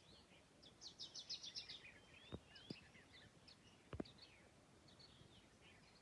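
Several small songbirds chirping and calling in trees, with a quick run of rapid chirps about a second in and scattered calls after. A few sharp clicks sound in the middle, the loudest about four seconds in.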